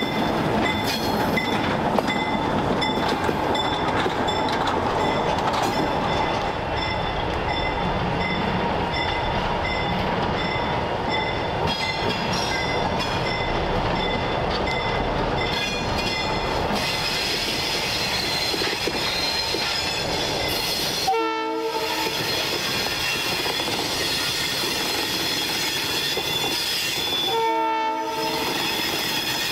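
ALCO S2 switcher locomotives running past at the head of a freight train: a steady engine and rail rumble with wheels clicking and a thin high wheel squeal. The horn sounds in two short blasts, one about two-thirds of the way through and one near the end.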